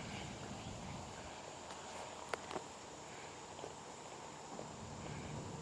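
Faint outdoor ambience: a low, steady hiss with two soft clicks about two and a half seconds in.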